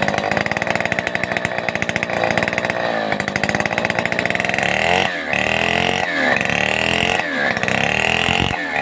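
Stihl 070 two-stroke chainsaw running at high revs. In the second half its pitch dips and recovers about once a second.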